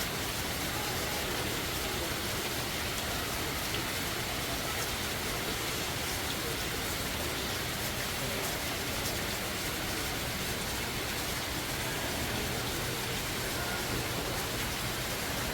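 A steady, even rushing noise with no change in level throughout.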